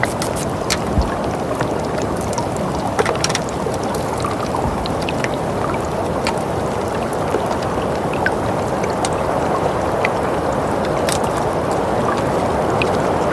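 Steady soft winter wind ambience, an even rushing noise, with small crackles and pops scattered irregularly through it.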